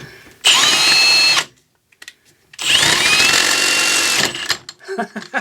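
Power drill with a Spectral stepped-point bit drilling metal in two bursts, one of about a second and a longer one of nearly two seconds, each opening with a rising whine as the drill spins up, with a short silence between.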